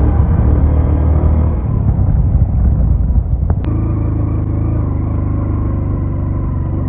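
Motor vehicle engine running close by, a loud low rumble. The engine note shifts to a different steady pitch about halfway through.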